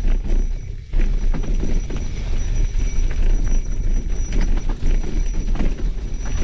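Mountain bike rattling and clattering over a rough trail, with many sharp knocks from the frame and chain as it hits bumps, and heavy wind rumble on the microphone. The noise dips briefly just before a second in, then comes back at full level.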